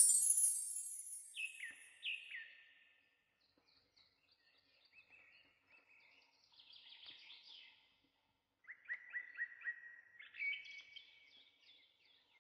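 A high chiming jingle dies away in the first second or so. Then wild songbirds call: two clear down-slurred whistles, faint scattered chirps, and later a quick run of about six sharp notes followed by a short trill.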